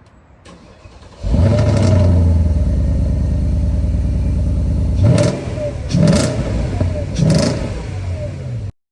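Porsche Cayenne GTS V8 engine starting, catching suddenly about a second in and running at a steady idle, then revved briefly three times.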